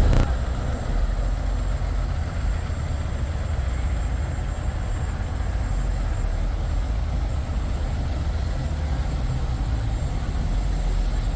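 Diesel semi truck engines idling: a steady low rumble.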